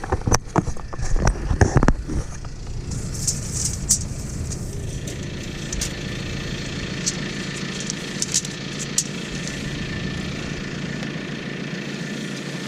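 Tractor engine idling steadily, with a few sharp knocks and rattles in the first couple of seconds.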